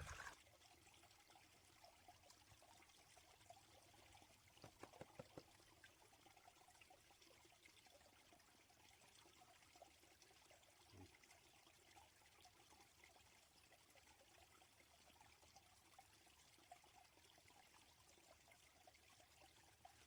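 Faint trickling and sloshing water from a gold pan of classified creek gravel being worked in the water, with a few soft knocks about five seconds in.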